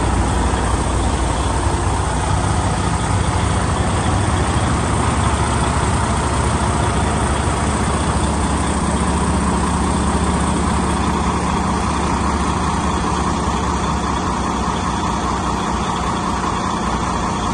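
Truck engine running steadily with a low, even hum and no change in speed.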